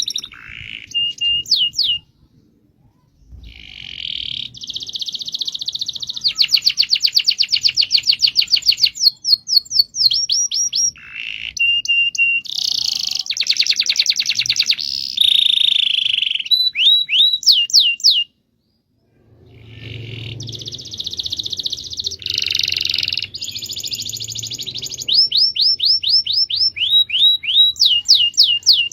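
Domestic canary singing a long rolling song: fast trills and runs of quick repeated sweeping notes, broken by two short pauses, about two seconds in and about eighteen seconds in.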